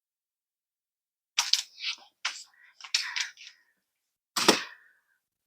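Sharp metallic clinks and clicks of hand tools as sockets or wrenches are tried on a suspension bolt to find its size: a quick run of about six clicks, then one louder clank about a second later.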